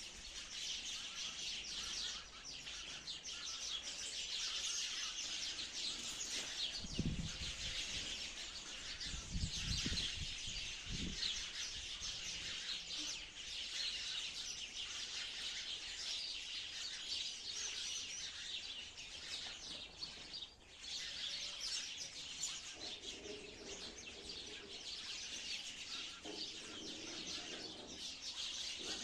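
A flock of sparrows chirping densely and continuously, many calls overlapping. A few low thumps come through about seven to eleven seconds in.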